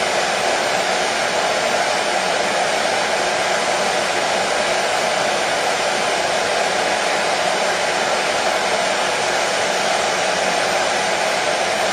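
Hair dryer running steadily: an even, unchanging rush of blown air and motor noise.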